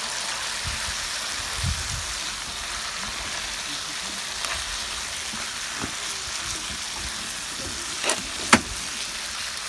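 Pork neck sizzling on a grill over a wood fire, a steady hiss. Two sharp clicks come near the end.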